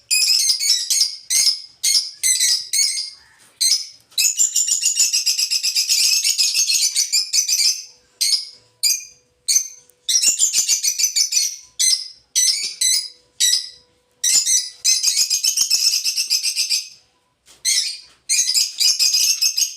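Pet lovebirds chattering in rapid, high, squeaky chirps. Short bursts broken by brief pauses alternate with runs of continuous chatter lasting a couple of seconds.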